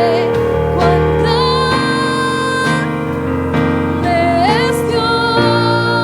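Church gospel music: a singer holding wavering, vibrato notes over sustained piano or keyboard chords that change every second or two.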